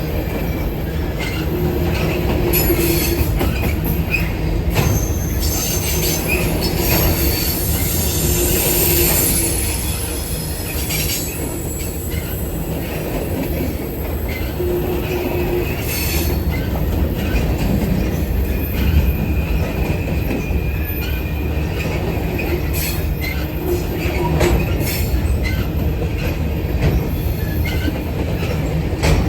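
A train rolling past with a steady rumble of steel wheels on rail. High-pitched wheel squeal comes and goes, and there are scattered clicks and clanks.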